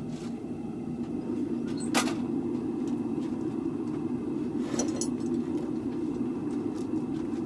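A steady low machine drone, with a sharp knock about two seconds in and a brief metallic rattle near five seconds.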